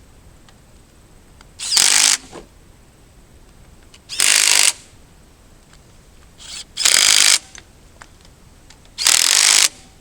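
A ratchet wrench worked in four short bursts of ratcheting, each about half a second long and roughly two seconds apart.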